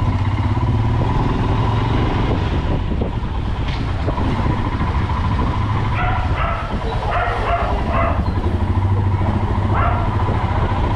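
Motorcycle engine running steadily on the road, a continuous low rumble. A few short, higher-pitched sounds cut in around the middle and once more near the end.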